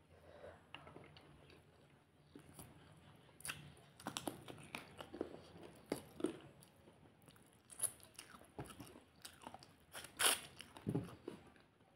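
Close-up chewing and mouth sounds of someone eating rice and chicken curry by hand, with irregular crunches and wet clicks and a sharp louder smack about ten seconds in as a handful goes into the mouth.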